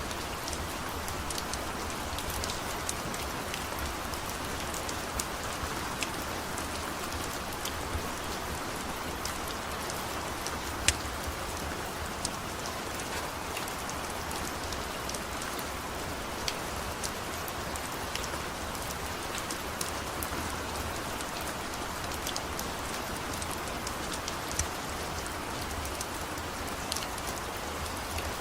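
Steady rain falling, with scattered sharp clicks now and then, one louder about eleven seconds in.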